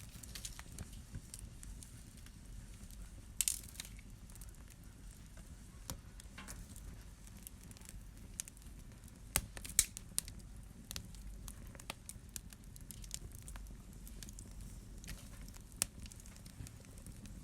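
Wood fire burning in a fireplace, with a low rumble of flames and irregular sharp crackles and pops; the loudest pops come about three and a half seconds in, a cluster near ten seconds, and one about sixteen seconds in.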